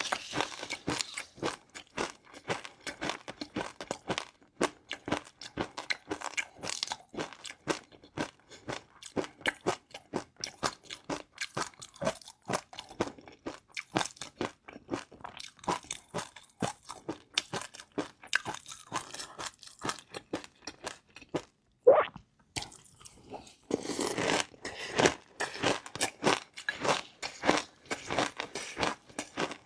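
Close-miked chewing of crunchy food, a steady run of rapid crisp crunches, with a brief squeak-like sound about two thirds of the way through.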